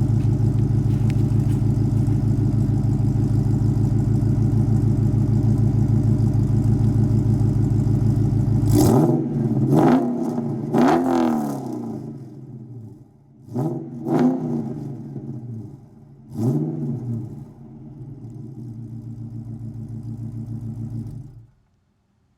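Dodge Charger R/T's 5.7-litre Hemi V8, breathing through JBA long-tube headers with no catalytic converters and a Corsa Extreme exhaust, idling steadily while still warming after a cold start. It is then revved in three quick blips in a row, and after a pause in three more spaced blips, before settling back to idle. The sound cuts off sharply near the end.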